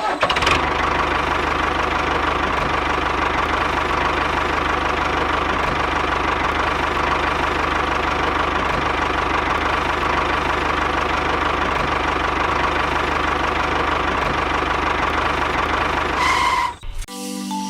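The small engine of a DIY mini tractor running steadily at an even speed, with a fast, even knock.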